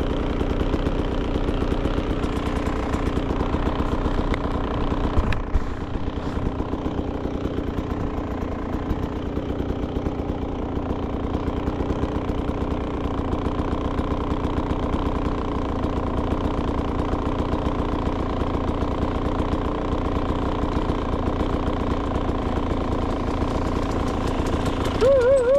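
Beta 300 RR two-stroke dirt bike engine idling steadily. There is a short click about five seconds in and a brief wavering note near the end.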